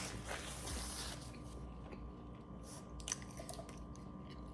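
A person chewing food close to the microphone: soft wet mouth sounds and a few small clicks, the sharpest about three seconds in. A faint steady hum runs underneath.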